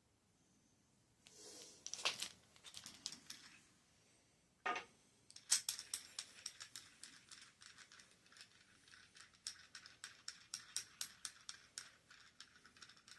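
Hand tools and bicycle headset parts being handled: a rustle with a few clicks, a single knock, then a long run of light metallic clicks at about three a second.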